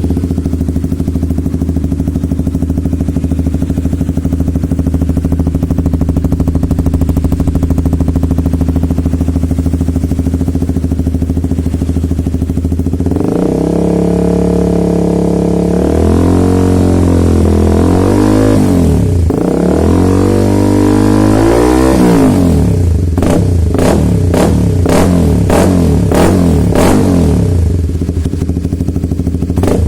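Honda CBR150R single-cylinder engine running through an aftermarket exhaust, idling steadily at first. From about 13 s in it is revved up and down in repeated throttle blips, and after about 22 s come quick sharp stabs of throttle.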